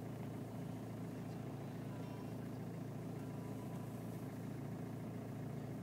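BMW E46 320Cd's four-cylinder diesel engine idling steadily after a cold start.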